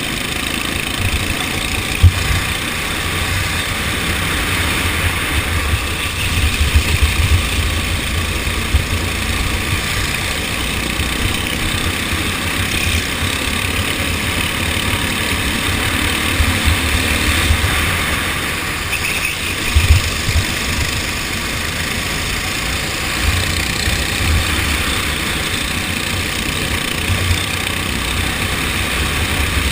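Go-kart engine running steadily during a race, with irregular low buffeting on the microphone and a sharp knock about two seconds in.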